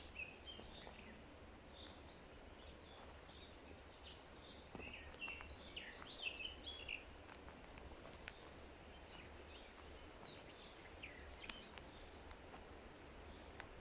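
Faint forest birdsong: several small birds chirping and twittering, busiest about halfway through, over a low steady background rumble.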